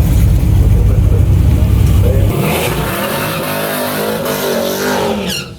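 Loud car engine: a heavy low rumble, then from about two seconds in the engine revs up, its pitch climbing, until the sound cuts off abruptly near the end.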